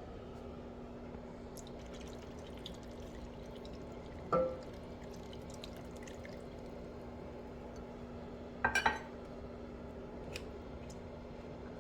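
Utensil clinking against cookware: one ringing clink, then a quick run of two or three clinks a few seconds later, over a steady low kitchen hum.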